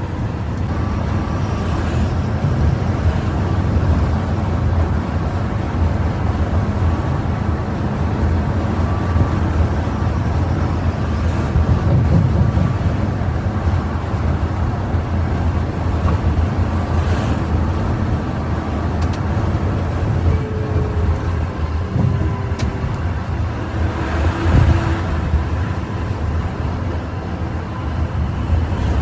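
Bus running at highway speed: a steady low rumble of engine and road noise, with a few faint brief tones.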